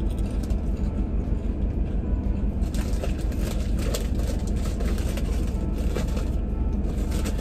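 A person chewing a crisp potato chip in the mouth, with a run of quick crunches from about three seconds in, over a steady low hum from the car.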